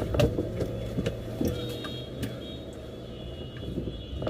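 Car engine idling, heard from inside the cabin: a steady low hum, with a few light clicks.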